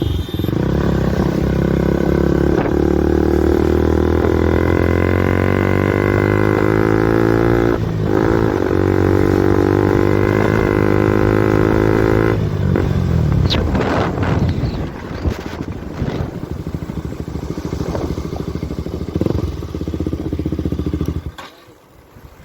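KTM RC 200's single-cylinder engine running loud through an Akrapovic exhaust with the dB killer removed, its pitch rising and falling with the throttle and dipping briefly about 8 s in. About halfway through it turns quieter and rougher, and it cuts off near the end.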